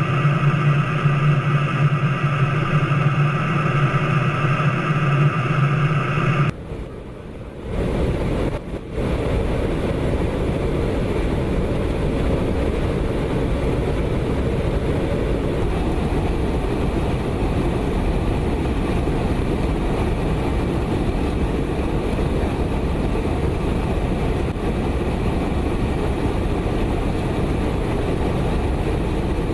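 Steady jet aircraft engine noise: for about six seconds a drone with a low hum and a higher whine, which cuts off abruptly; after a short dip, a steady even rumble.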